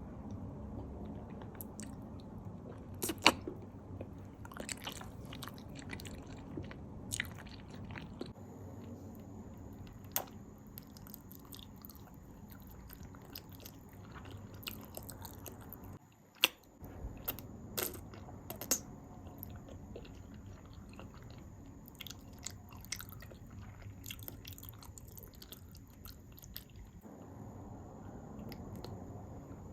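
Close-miked eating: bites and chewing, with scattered sharp crunches every few seconds.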